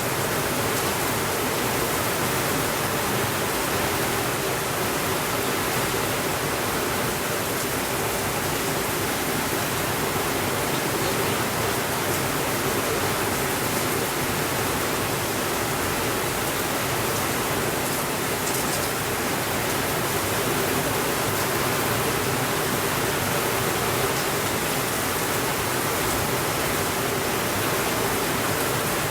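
Steady rainfall, an even hiss that holds at the same level throughout, with no thunder.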